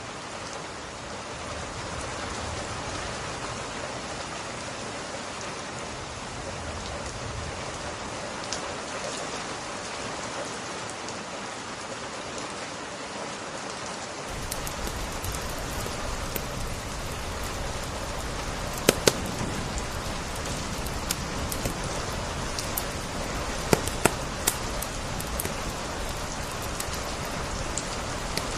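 Steady rain hissing. About halfway it turns fuller and deeper, and sharp crackling pops of a wood fire start breaking through, a few of them loud.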